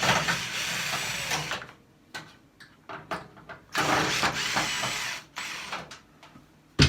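Screwdriver turning screws out of a microwave oven's sheet-metal casing: two runs of about a second and a half each, with clicks between them. A single sharp knock near the end.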